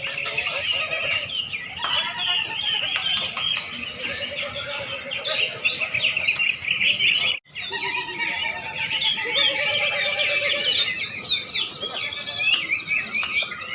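Many caged songbirds singing at once in competition, a dense overlapping chorus of chirps, whistles and trills. The sound cuts out for a split second about halfway through.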